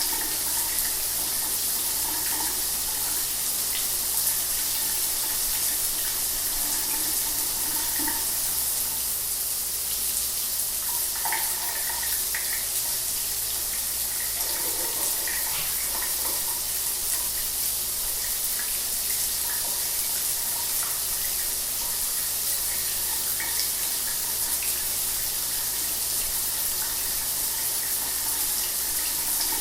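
Shower water running steadily, the spray hissing down onto a hard surface, with a few faint splashing changes about halfway through.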